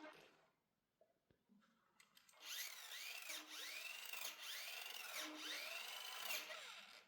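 Small electric motor and gears of a toy remote-control car whining. About two and a half seconds in it starts, and the pitch rises and falls roughly once a second as the motor is throttled up and eased off again and again.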